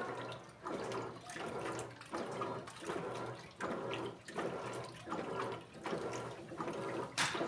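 Electrolux Essential Care LED14 top-loading washing machine agitating its wash load: water and clothes slosh in regular surges about every 0.7 s as the impeller reverses, over a steady low motor hum. A brief sharp noise comes near the end.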